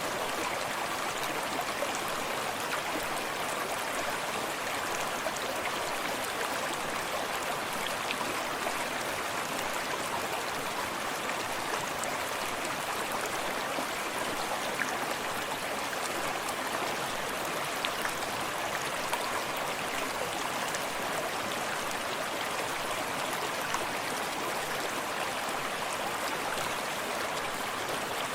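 Forest stream flowing steadily, with water splashing close by over a continuous rush of running water.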